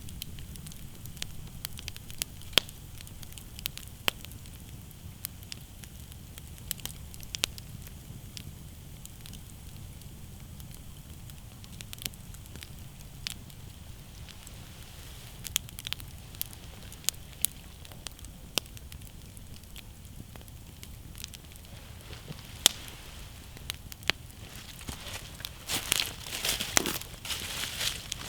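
Wood campfire crackling, with scattered sharp pops and snaps over a steady low rumble of the flames. Near the end the crackling turns busier and louder for a few seconds.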